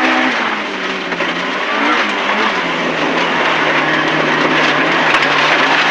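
In-car sound of an MG ZR rally car's 1.4-litre four-cylinder engine running flat out along the stage, its note easing down a little in the first few seconds and then holding steady, over loud road and tyre noise.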